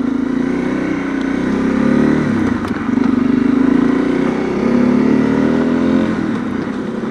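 Honda CRF250L's single-cylinder engine pulling while riding, the revs climbing and dropping back twice, about two and a half and four and a half seconds in, as it is shifted up through the gears, then easing off near the end.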